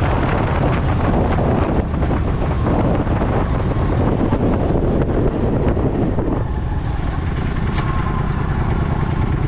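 Motorcycle running on the road with heavy wind rushing over the microphone. The wind noise drops about two-thirds of the way in, leaving the engine's low hum more prominent.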